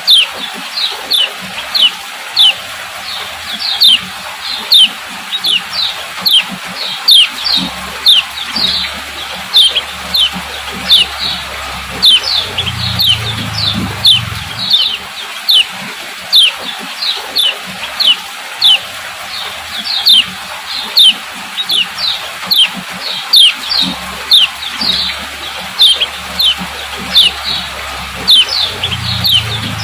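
Female kecial kuning (yellow white-eye) giving its repeated 'ciak ciak' call: short, sharp, falling chirps about twice a second, keeping up a steady rhythm.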